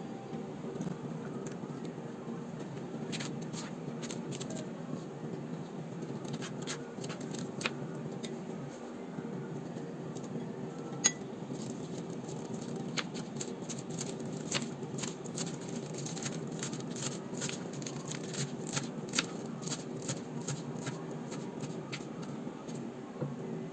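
Many small, sharp clicks and ticks of light handling, growing denser about halfway through, over a steady low hum.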